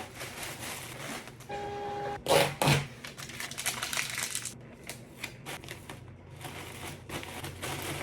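Items and packaging being handled: irregular clicks, taps and rustling, with a short steady beep about a second and a half in and a couple of louder knocks just after.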